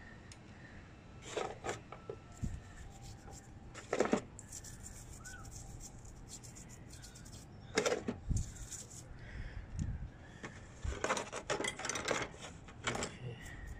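A toothbrush scrubbing metal Bendix purge valve parts in several short bursts of brushing, with light clinks and rubbing of the parts being handled.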